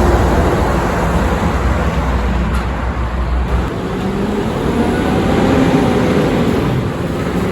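Heavy truck traffic passing close by: engine and tyre noise, with a deep rumble that drops away about three and a half seconds in. An engine note rises slightly near the end.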